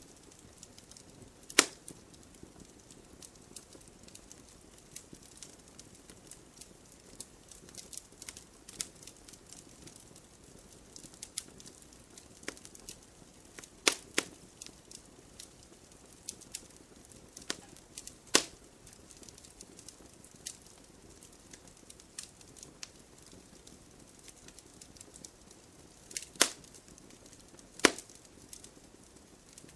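Wood fire crackling: irregular small snaps and ticks over a soft hiss, with about five louder pops of burning wood.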